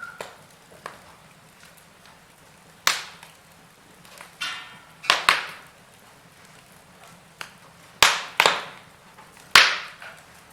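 Wood fire burning in a fireplace, crackling sparsely over a faint background hiss, with about six sharp pops of burning logs, some in quick pairs, and a short hiss partway through.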